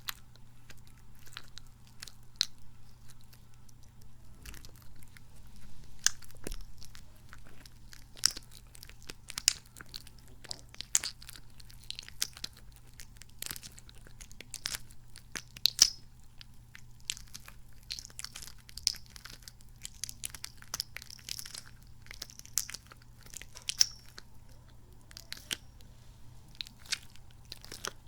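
Squishy kidney-bean toy being squeezed and kneaded close to the microphone, giving sticky, squelching sounds made of dense, irregular little crackles and clicks.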